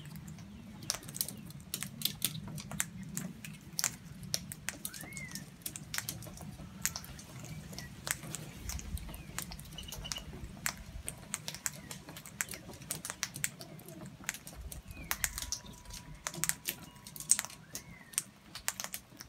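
Birds pecking at seed on a hard surface: irregular sharp taps and clicks of beaks, with a few short rising-and-falling chirps.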